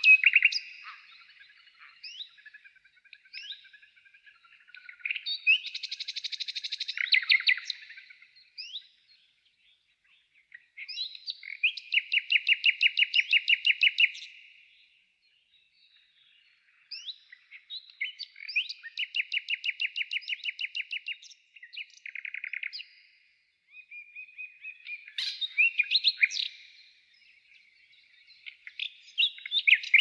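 Songbird singing: several fast, even trills of two to four seconds each, with chirps and short pauses between them.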